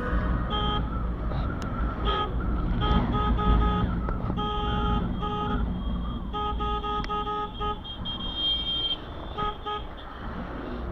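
Vehicle horn honking on a busy road: a string of short toots and a couple of longer blasts over the low rumble of engines and tyres.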